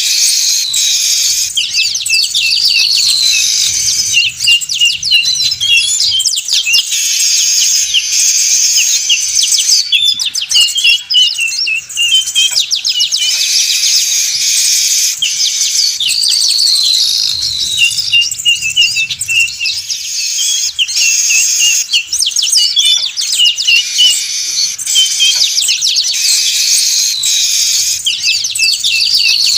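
A flock of weaver birds (manyar) chattering noisily: dense, overlapping churring and trilling calls with a few rising whistles, in a recording that repeats itself about every fourteen seconds.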